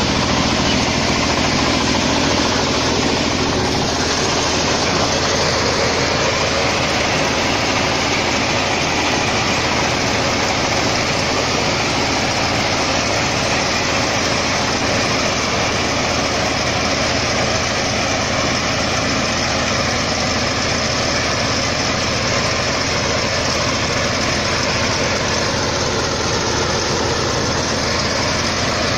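Mini combine harvester's engine running steadily, a constant engine note under an even mechanical noise with no change in speed.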